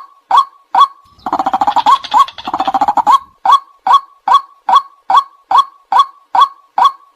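White-breasted waterhen calling: a loud, monotonous series of sharp 'kwak' notes, about two and a half a second. About a second in, they give way to two fast rattling phrases lasting about two seconds in all, then the steady kwaks resume.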